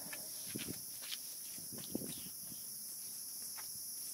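Steady high-pitched outdoor insect chorus, with a few faint scattered taps and knocks.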